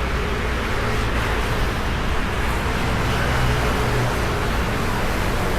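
Steady city road traffic: vehicles running by, with a low engine hum underneath.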